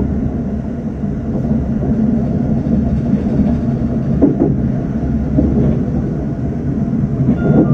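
Electric local train running, heard from inside the leading car as a steady low rumble while it rolls along a station platform.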